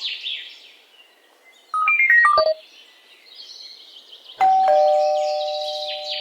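A quick run of short chime notes stepping down in pitch, then a single struck two-tone chime, doorbell-like, that rings on and slowly fades. Birds chirp before and after the chimes.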